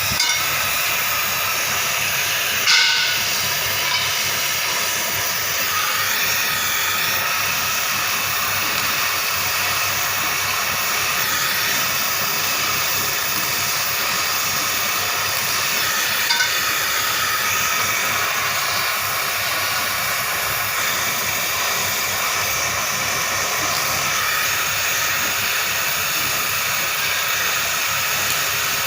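Gas welding torch flame burning with a steady hiss, broken by a short sharp sound about three seconds in and another about sixteen seconds in.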